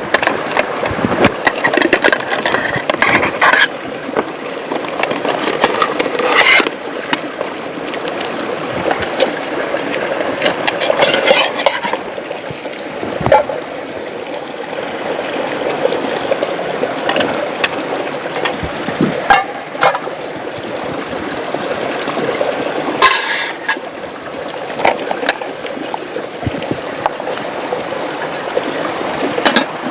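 River water rushing steadily, with frequent sharp clicks and a few louder knocks and splashes scattered through it.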